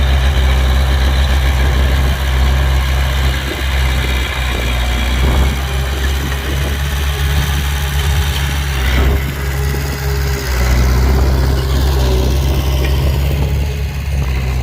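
A running engine's steady low drone, with a noisy haze above it.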